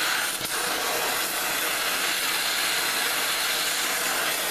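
Oxyacetylene torch with a welding tip hissing steadily as it heats a steel pipe, with one brief click about half a second in.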